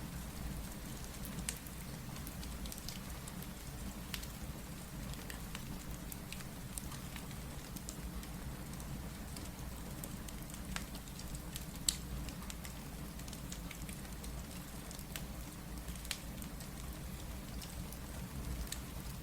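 Steady rain hiss over a low rumble, with scattered sharp pops and crackles of a wood fire. One louder pop comes about twelve seconds in.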